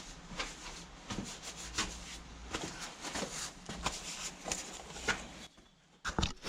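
Hands being wiped clean with a rag: a run of short, irregular rubbing and scuffing sounds that stop about five and a half seconds in.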